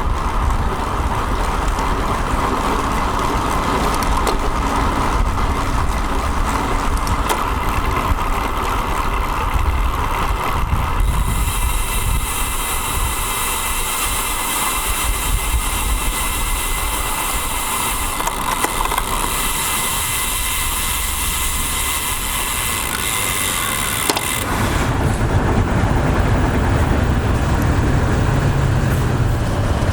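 Wind rushing over a bicycle-mounted action camera's microphone, with road noise and passing motor traffic. A high hiss joins in from about 11 to 24 s, and a deeper rumble takes over from about 24 s on.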